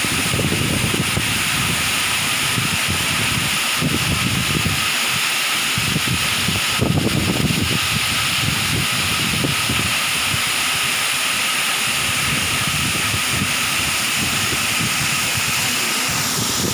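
Waterfall rushing: a steady, even roar of falling water, with irregular low rumbles coming and going beneath it.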